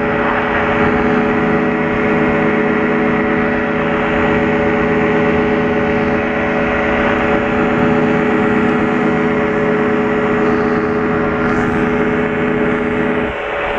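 Light aircraft's engine and propeller droning steadily in flight, a constant hum of several pitches. It dips briefly near the end.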